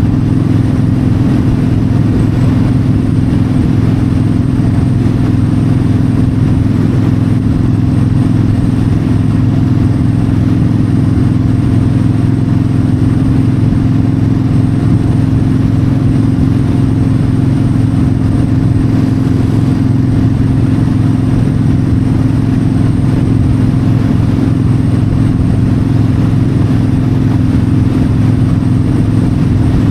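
Yamaha V-Star 1300's V-twin engine running at a steady cruising speed, an even low drone with no revving, under a steady rush of wind.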